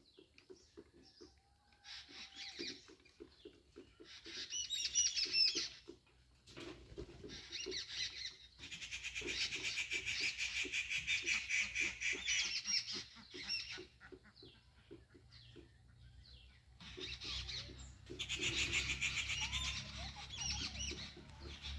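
Birds chirping and twittering in rapid, dense bursts. The longest and loudest bursts come about a third of the way in and again near the end, with a string of soft low ticks underneath.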